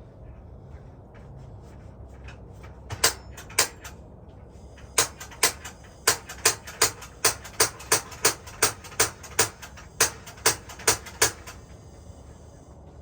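A run of sharp, even clicks, about two to three a second, over a steady low rumble. Two single clicks come about three seconds in, and the run starts about two seconds later and stops near the end.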